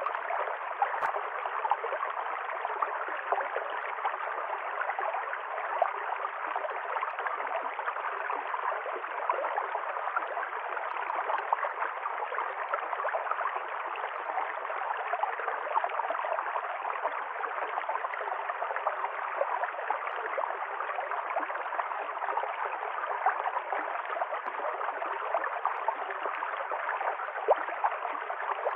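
A river stream flowing and gurgling, a steady wash of running water with many small splashes and bubbles.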